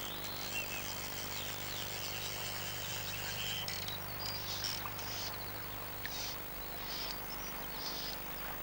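Birds chirping, with short high calls early on and then one short call repeated roughly once a second through the second half, over a steady background hiss and a low hum.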